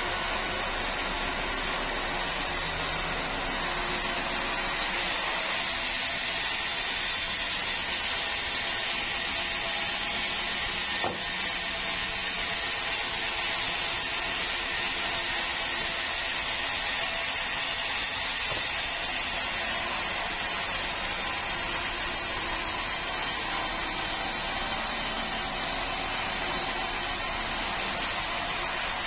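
Sawmill saw running steadily through meranti timber, a constant machine noise with a faint steady whine and one small tick about eleven seconds in.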